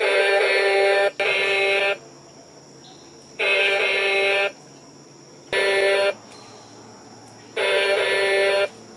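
Electronic horn of a 1996 Hess Emergency Truck toy sounding five times, each a steady, buzzy tone lasting half a second to a second, with short pauses between.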